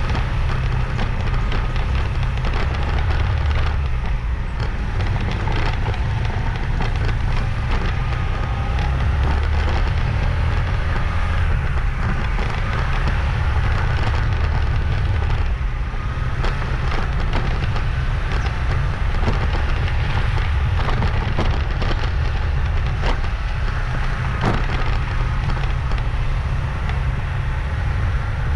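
Motorbike on the move: a steady low wind rumble buffeting the microphone over engine and road noise, with a crackling texture throughout.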